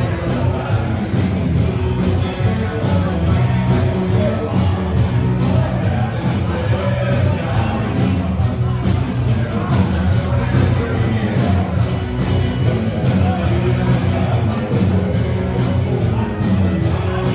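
A live rock band playing loudly, with singing over a fast, steady beat.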